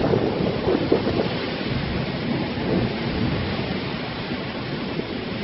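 Thunder rumbling in a heavy rainstorm. The rumble is strongest in about the first second, then dies away into the steady hiss of pouring rain.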